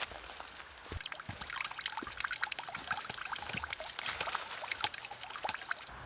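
Water trickling, with many small irregular drips and gurgles.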